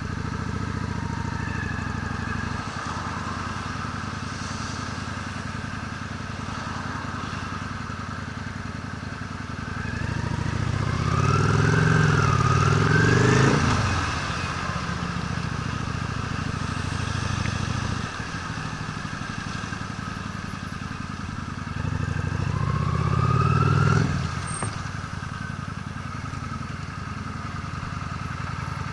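Honda Steed V-twin motorcycle engine running under way, a steady low note. Twice the revs climb as it accelerates, about ten seconds in and again near the end, then drop back sharply off the throttle.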